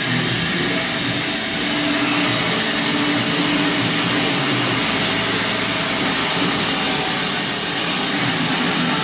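Mercedes OM460LA 12.8-litre inline-six diesel engine running steadily and loudly during a test run.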